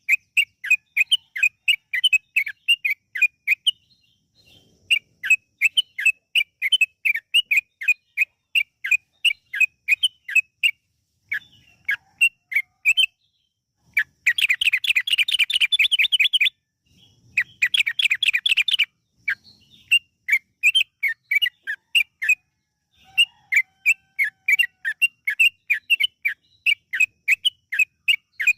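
Yellow-vented bulbul (trucukan) singing a run of quick chattering notes, about four a second with short pauses. Near the middle it breaks into two fast, dense trills of about two seconds and a second and a half.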